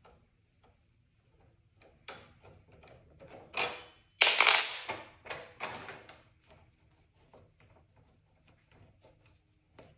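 Hard objects, likely metal bike parts and tools, clinking and clattering as they are handled and set down: a run of knocks starting about two seconds in, loudest a little before the middle, then a few faint ticks.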